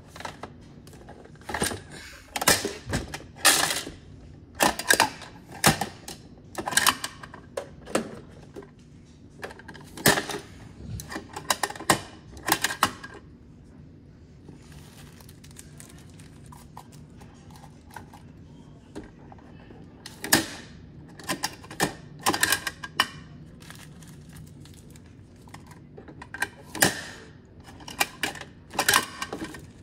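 Irregular sharp clacks and knocks of hard objects, coming in clusters with a quieter stretch in the middle, over a faint steady low hum.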